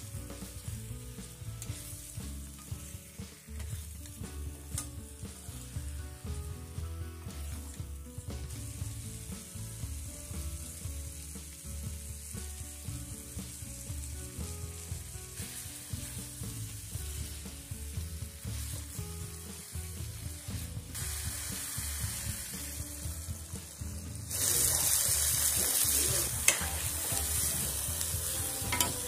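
Chicken with onion and spices sizzling in a black iron kadai as a steel ladle stirs it. About 24 seconds in, the sizzle turns into a louder, steady hiss as water goes into the hot pan.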